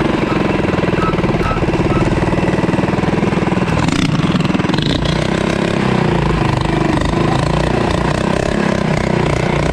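Mini bike engine running steadily, its pitch wavering a little with the throttle around the middle.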